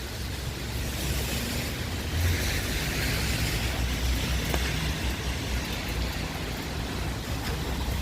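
Rain and wind on a wet street, with low wind rumble on the microphone and a hiss that swells and fades a couple of seconds in.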